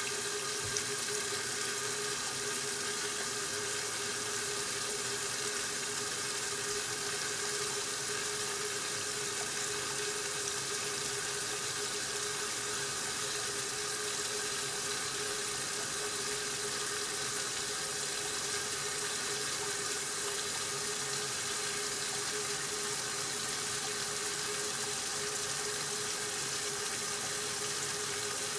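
Water rushing steadily in a 1969 Westinghouse washing machine mid-cycle, with a steady hum underneath.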